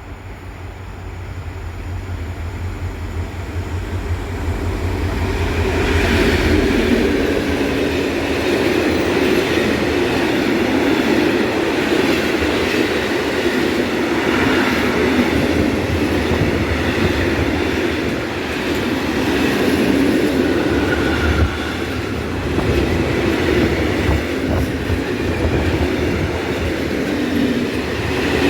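M62 diesel locomotive, a Soviet-built two-stroke V12, passing while hauling a train of open coal wagons. Its low pulsing engine drone grows louder over the first few seconds as it approaches. The wagons then rumble past with a clatter of wheels over rail joints to the end.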